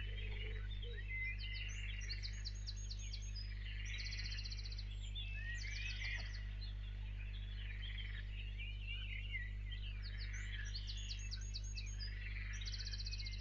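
Birds chirping and trilling, with short repeated rapid trills higher up, over a steady low hum. The same birdsong phrases come round again about nine seconds apart, as in a looped recording.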